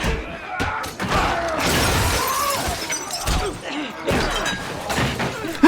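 Crashing and smashing noises from a violent scene in a TV drama, with a loud noisy stretch about one and a half seconds in.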